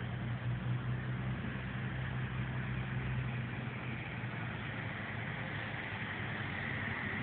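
A steady low engine-like hum over a haze of background noise, with no bangs; the hum weakens about halfway through.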